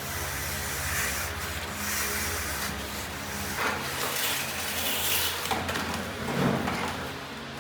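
Rough scraping or rubbing strokes, several of them a second or so apart, over a steady low hum.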